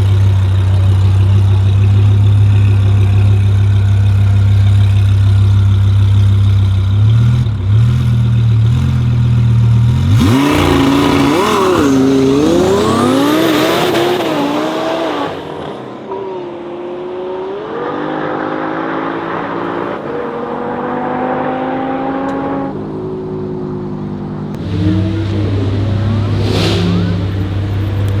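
Twin-turbocharged Lamborghini Huracan Performante V10 at a drag launch: a deep steady rumble, a few stepped revs, then hard acceleration with the pitch climbing and breaking at gear changes for several seconds. A deep steady rumble returns near the end.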